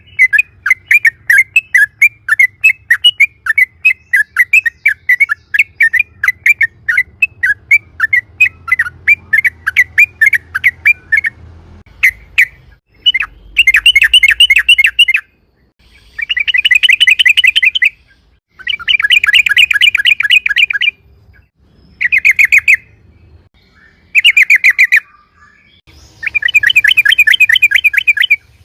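Yellow-vented bulbul (trucukan) singing loudly. First comes a fast series of short chirps, about three or four a second, then from about halfway long rapid rolling trills in bursts of one to two seconds with short pauses between.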